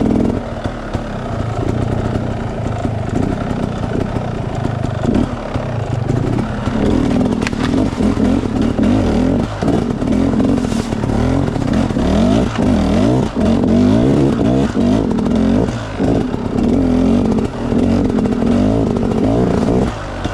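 Enduro dirt bike engine running and revving up and down repeatedly, its pitch rising and falling many times.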